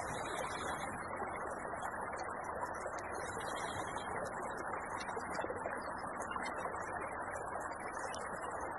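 A small creek flowing in a steady, even rush, with faint scattered ticks over it.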